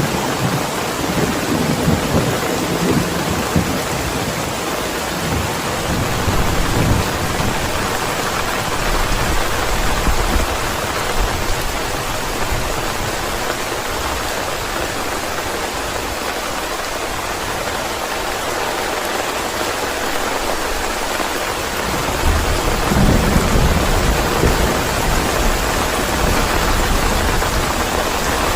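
Steady rain falling, with low rumbles of thunder: one fading out in the first few seconds and another rolling in about three-quarters of the way through.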